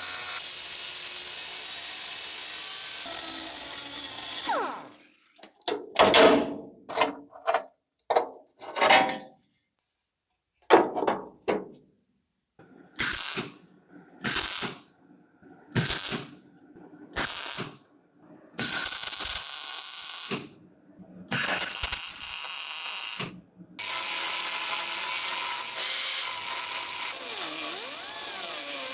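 A workshop power tool running steadily, then in about a dozen short bursts with silent gaps between them, then running steadily again.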